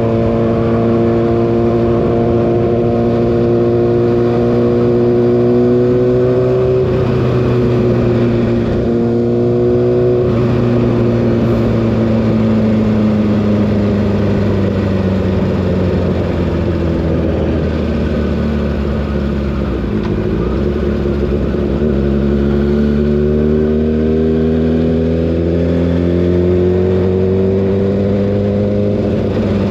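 Kawasaki ZX-6R inline-four engine running at road speed. The note holds steady, dips and shifts a couple of times in the first third, sinks gradually through the middle as the bike slows, then climbs again steadily near the end as it accelerates.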